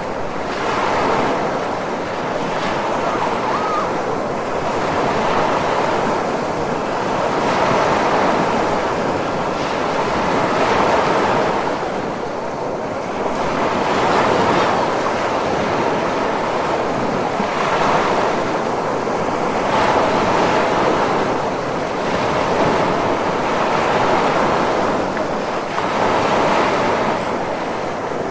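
Ocean surf as a continuous rush of breaking and washing waves, swelling and easing every two to three seconds.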